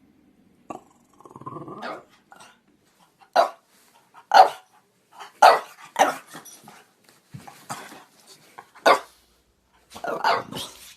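French Bulldog growling low, then barking in a series of short, sharp barks about a second apart, the loudest about four seconds in and a quick cluster near the end.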